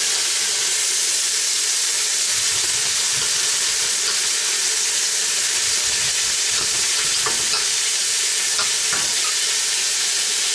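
Salt pork and cabbage sizzling steadily in a stainless steel frying pan, with a few faint scrapes of a serrated knife sawing the cabbage against the pan in the second half.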